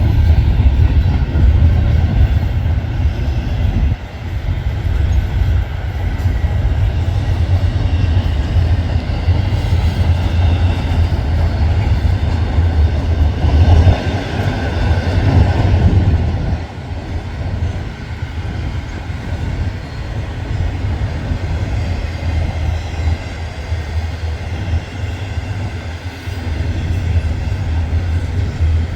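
Freight train's container cars rolling past close by: a steady low rumble of wheels on rail with clattering over the joints, growing louder for a few seconds about halfway through.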